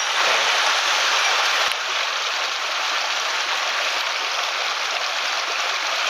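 Small mountain headwater stream rushing over rocks: a steady, even water noise, slightly louder for the first second and a half.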